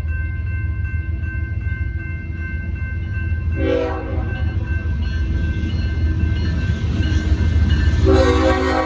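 Freight train's diesel locomotive, a GE ES44C4, rumbling heavily as it approaches a grade crossing, with the crossing bell ringing. Its multi-chime air horn gives one short blast about three and a half seconds in, then a longer, louder blast near the end as part of the crossing warning.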